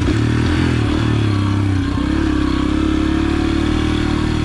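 Yamaha TT-R125 pit bike's single-cylinder four-stroke engine running as the bike is ridden, its engine speed dipping and picking up slightly in the first two seconds, then holding steady.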